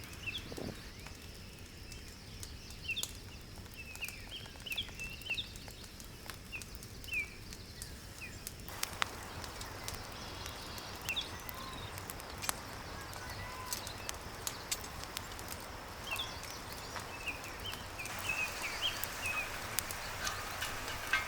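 Wood fire crackling with scattered sharp pops, while small birds chirp short high notes throughout. The crackle turns busier and hissier about nine seconds in.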